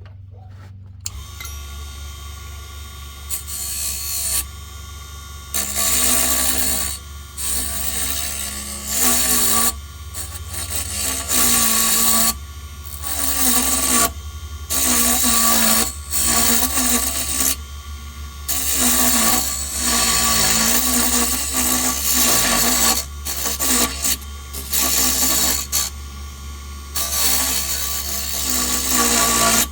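Small wood lathe motor starting about a second in and running with a steady hum, while a tool is pressed again and again into the spinning pine lure blank, each cut a harsh hiss lasting a second or two.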